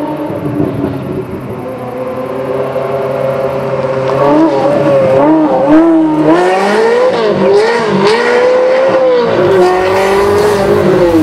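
Ferrari 360 Spider's V8 engine revving as the car drives off. It is fairly steady at first, then gets louder about four seconds in, with the pitch climbing and falling repeatedly.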